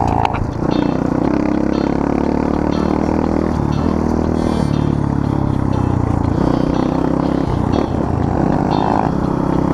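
Small single-cylinder pit bike engine running, with the revs shifting up and down and other engines running alongside.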